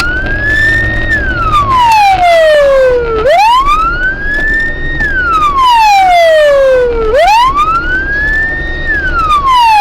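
Police car siren on a slow wail: the pitch climbs for about two seconds, then slides back down, repeating about every four seconds, with a low vehicle rumble underneath.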